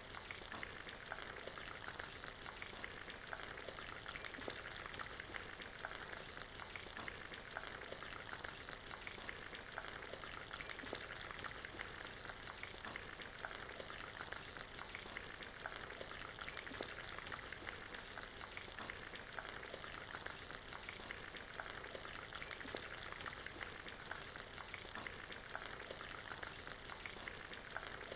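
Rain and fireplace ambience: a steady hiss of rain with many small crackles and ticks scattered through it.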